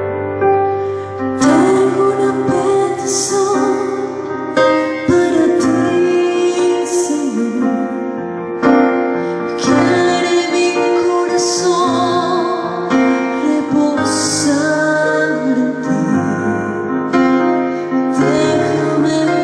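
Music: a woman singing with vibrato over a keyboard accompaniment, with a high shimmer about every four seconds.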